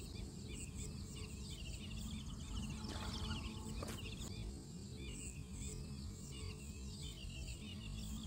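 Small birds chirping in quick, repeated calls over a steady low rumble, with one sharp click about four seconds in.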